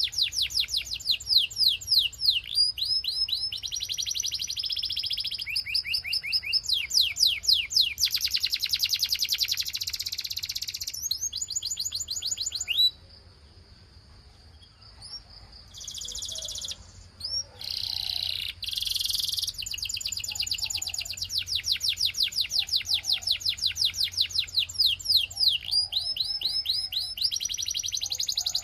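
Belgian canary singing: long rapid trills of repeated down-sweeping notes and rolling passages. About halfway through there is a brief quieter break with a thin held whistle, then the trills resume.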